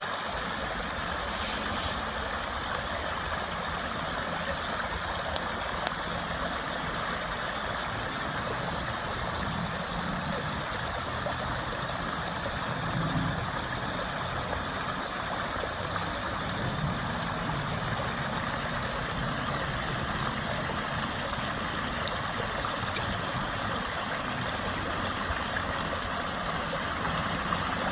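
Water flowing steadily, an even rushing with a shifting low rumble underneath.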